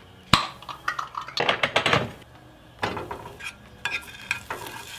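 Kitchen clatter: metal utensils clinking and knocking against dishes and a pan, with a sharp click just after the start and several separate clanks after it.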